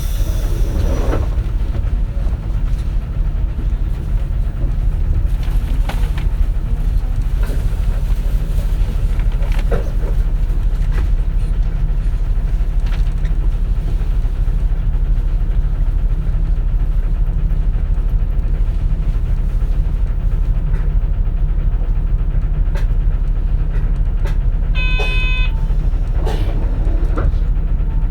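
Interior running sound of a 2004 CNG (natural gas) city bus: a steady low engine and road rumble with occasional knocks and rattles. A short electronic chime sounds near the end.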